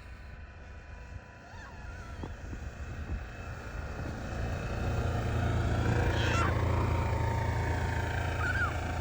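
A vehicle engine draws closer, growing louder over several seconds to its loudest about two-thirds of the way in, then easing off slightly. A few short high squeaks sound over it.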